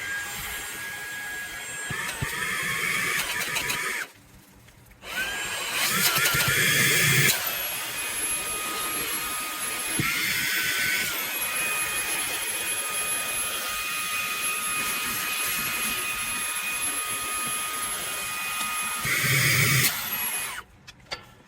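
Handheld cordless car vacuum's motor running with a steady high whine. It cuts out for about a second about four seconds in, comes back with a rising whine, and shifts pitch around ten seconds in. It swells louder with a low rumble twice, then stops abruptly near the end.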